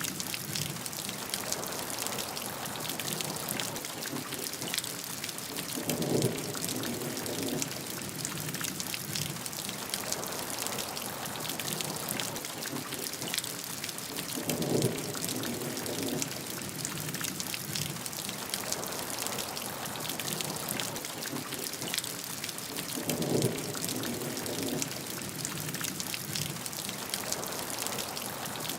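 Steady heavy rain falling on a surface, a dense even hiss of drops. A deeper swell rises out of it three times, about every eight and a half seconds.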